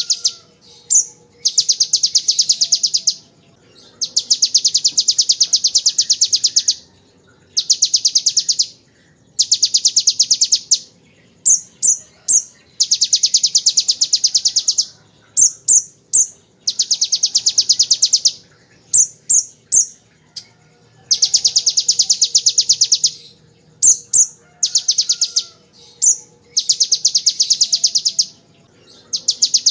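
Kolibri ninja (konin) sunbird singing a string of rapid, machine-gun-like high trills in the style of the ciblek's 'ngebren' song, each trill lasting one to three seconds, broken up by short sharp chirps.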